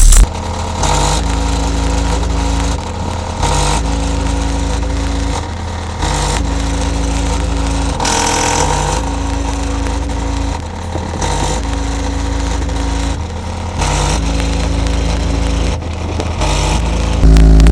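Bass-heavy electronic music played loud through a car audio system's Pioneer subwoofer and amplifier, its deep bass line stepping between held notes about every second or so.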